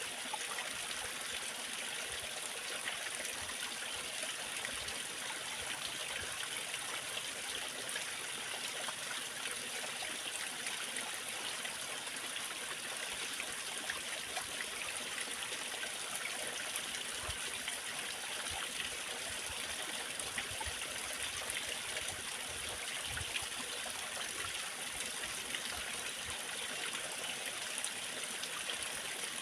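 Waterfall and stream: water splashing and flowing in a steady, even rush.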